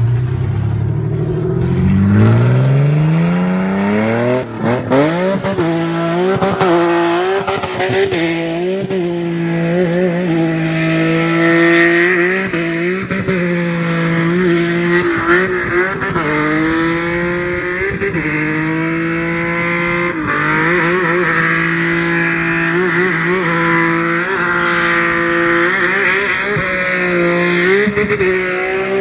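Old GT sedan's engine revving up over the first few seconds, then held at high revs with brief dips as the car slides and spins its rear wheels on loose dirt.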